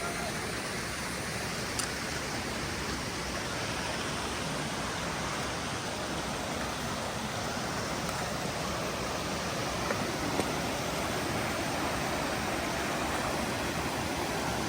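Steady rush of a mountain stream running over rocks, with a single sharp click about two seconds in.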